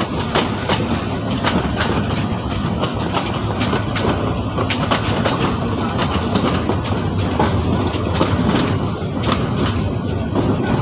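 A moving passenger train heard from an open coach doorway: the wheels run on the rails with a steady rumble and frequent sharp clicks and rattles.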